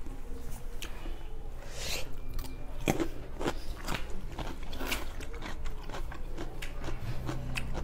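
Two people chewing and crunching food, with irregular sharp mouth clicks.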